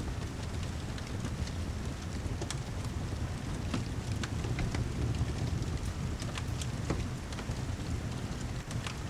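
Rain and fireplace ambience mixed together: a steady low rumbling wash of rain with scattered sharp crackles and ticks from the fire and drops.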